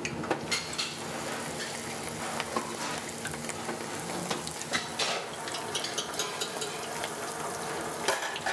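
Cornstarch-coated Chinese cabbage leaves frying in oil at about 150 °C: a steady sizzle with many small crackles.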